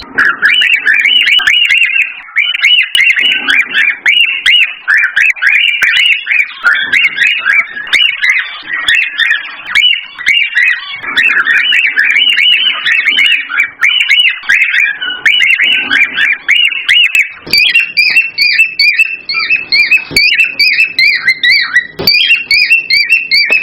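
Cockatiels chirping and whistling in a rapid, unbroken run of short calls, the kind of excited calling played to stimulate a pair to breed.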